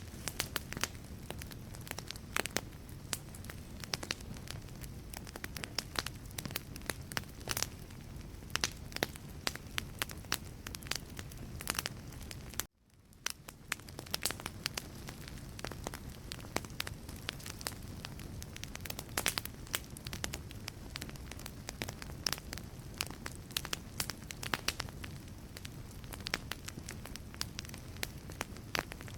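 Wood fire crackling in a fireplace: frequent sharp pops and snaps of burning logs over a steady low rush of flame. About halfway through, the sound cuts out for an instant and fades back in.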